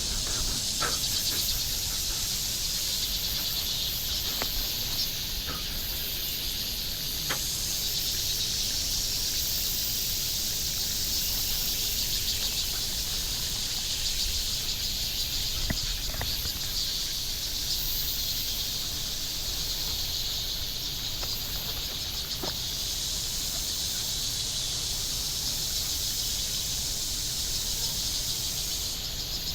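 A steady, dense chorus of insects calling, high-pitched and finely pulsing, with a few faint ticks scattered through it.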